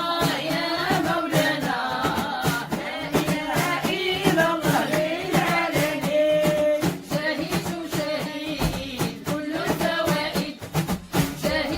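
Devotional dhikr chanting: voices singing a melody over a steady percussive beat.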